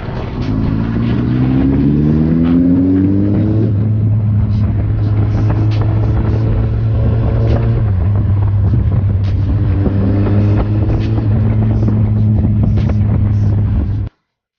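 Kawasaki Z800 inline-four motorcycle engine accelerating, its pitch rising for about three seconds, then running steady, with a second, shorter rise in revs about ten seconds in; the sound cuts off suddenly near the end.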